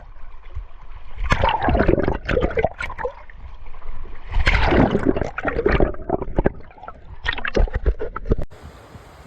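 Water splashing and gurgling right at the camera in uneven bursts. The sound cuts off suddenly near the end and gives way to a steady hiss.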